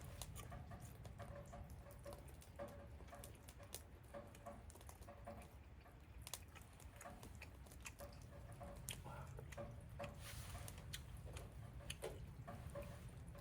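Faint patter of light rain with scattered small clicks and crackles from a wood fire.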